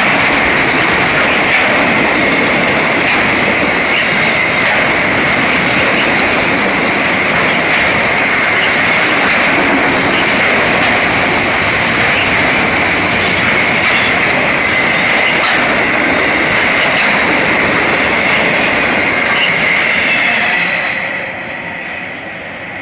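Freight train of autorack cars rolling past at speed: a loud, steady noise of wheels on rail with a constant high-pitched whine over it. The noise falls away about 21 seconds in as the last car passes.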